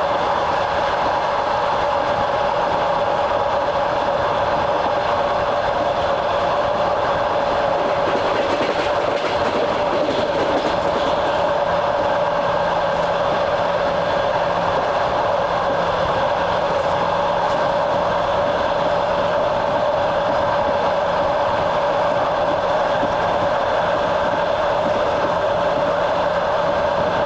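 Train running steadily along the track, heard from aboard: a continuous rumble of the wheels on the rails with a few steady held tones over it.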